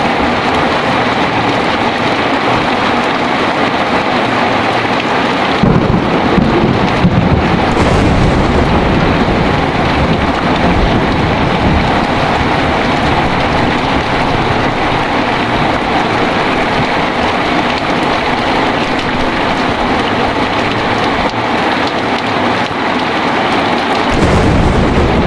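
Heavy rain falling steadily. About six seconds in, a thunderclap breaks out and its low rumble rolls on for many seconds, and another thunder rumble begins near the end.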